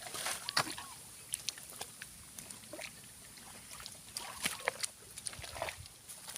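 Shallow muddy water splashing and sloshing irregularly as hands and feet work through it, in short separate splashes.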